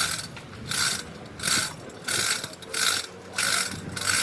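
A tool working metal in even, rasping strokes, about three every two seconds.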